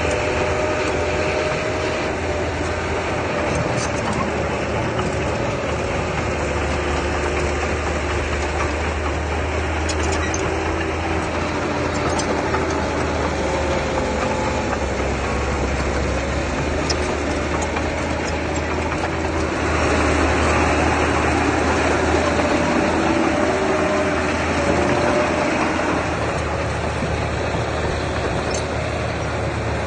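Engine of a heavy earthmoving machine running steadily, with a few faint clicks. About two-thirds of the way through it grows louder for several seconds as the machine works harder, then settles back.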